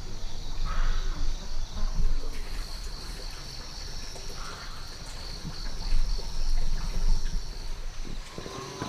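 Steady high-pitched insect chorus with a few short calls, over uneven low rumbling noise.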